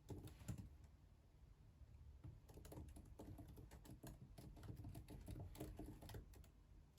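Faint typing on a computer keyboard: a short run of key clicks, a pause of about a second and a half, then a longer, rapid run of clicks that stops shortly before the end.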